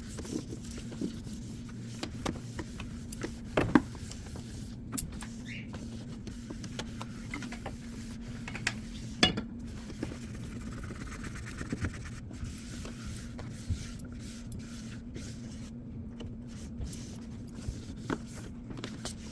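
Scattered clinks, knocks and scrapes of containers and kitchen items being handled and set down, over a steady low hum.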